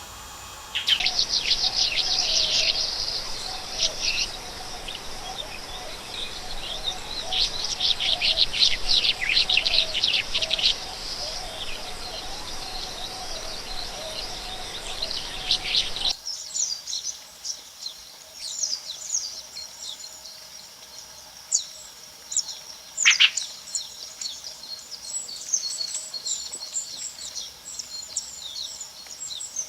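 Rainforest birds chirping and calling, many quick calls overlapping, with a faint steady background hum of insects. About halfway through the sound changes abruptly to higher, thinner chirps and one clear falling whistle.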